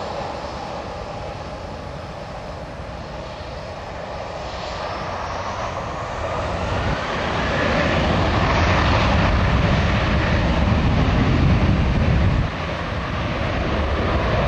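Boeing 737-800 jet engines growing louder as the airliner passes close by, with a whine that slides down in pitch as it goes past. It stays loud through the second half, with a sudden dip in level near the end.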